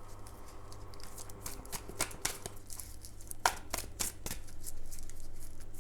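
Tarot cards being shuffled by hand: a run of quick, irregular papery clicks and flicks, growing denser about a second and a half in.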